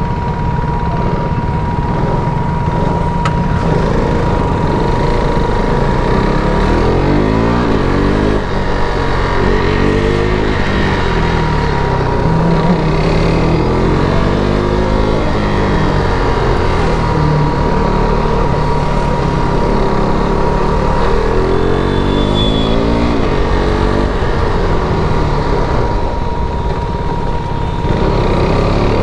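KTM RC 390's single-cylinder engine through its stock exhaust, revving up and falling back again and again as the bike is ridden, with a steadier stretch at the start before the rises and drops begin.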